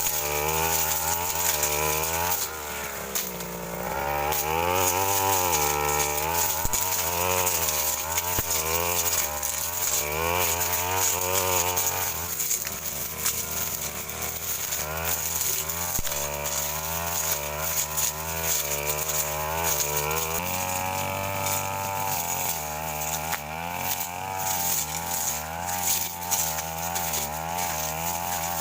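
Stihl FR 3001 brush cutter running hard, its engine pitch rising and falling over and over as the blade bites into woody brush and frees again.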